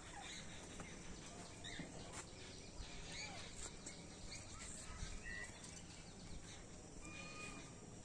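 Faint outdoor ambience with scattered short bird chirps and whistles over a steady background noise.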